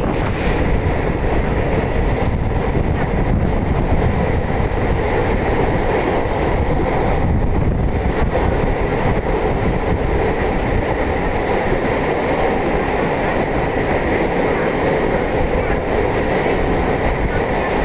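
EMU electric suburban train running along the track, heard from inside the coach: a steady, loud noise of wheels on rail.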